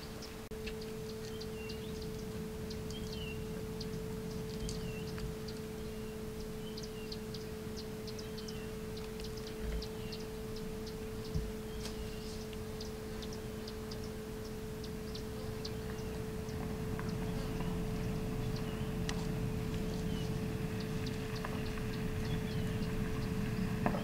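Birds calling with short, repeated chirps about once a second, over a steady low hum. A low rumble grows louder in the second half.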